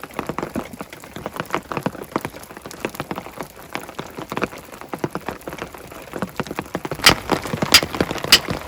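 Rain falling as a dense, irregular patter of drops on a nearby surface. Near the end, a run of louder, sharper taps comes about every half second.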